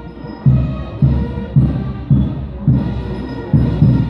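Marching band music: sustained brass-band tones over a heavy bass drum beating steadily, a little under twice a second.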